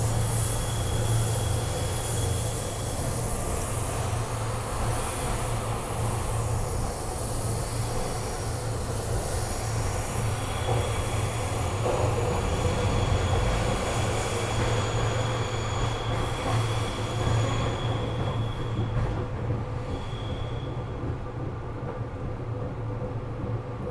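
SEPTA Regional Rail passenger car in motion, heard from inside: a steady rumble and low hum from the running train. A thin, high wheel squeal comes and goes, and the high rushing noise fades over the last few seconds.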